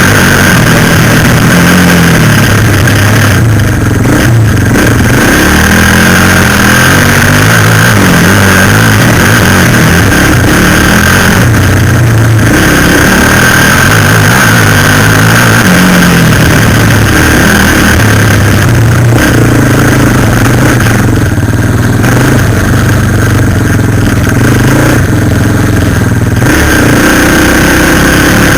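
Suzuki LTZ400 quad bike's single-cylinder four-stroke engine ridden hard, loud throughout, its pitch rising and falling over and over with throttle and gear changes.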